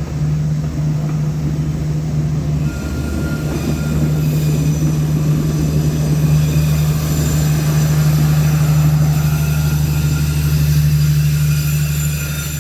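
Diesel train running past: a steady low engine drone with thin, faint wheel squeal from the rails.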